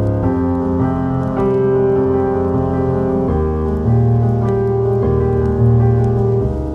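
Soft, slow piano music: held chords that change every second or two, with a few faint crackles from a fireplace ambience underneath.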